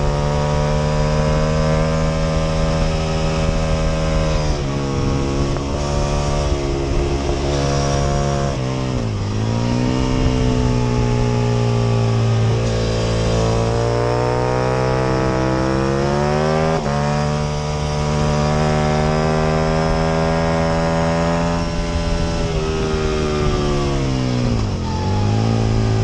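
Aprilia RSV Mille R's 998 cc V-twin engine under full race load, heard from onboard. Its pitch climbs steadily through the gears with sharp steps down at the upshifts, then falls hard twice, about nine seconds in and near the end, as it comes off the throttle and changes down before pulling up again.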